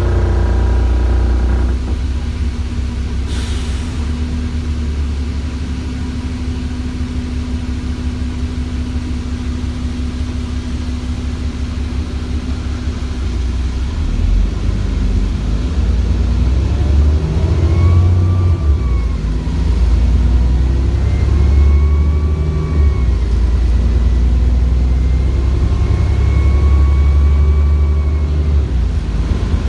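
Cummins ISBe 6.7-litre diesel of an ADL Enviro400 bus running with a deep, steady drone. In the second half, three times, its turbo whine rises and falls as the bus pulls away and eases off.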